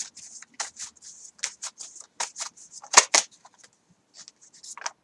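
A deck of tarot cards being shuffled by hand: quick, irregular crisp snaps of card stock, several a second, the loudest about three seconds in.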